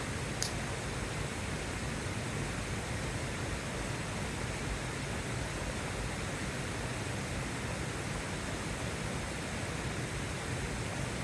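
A steady, even rushing noise with one sharp tick about half a second in.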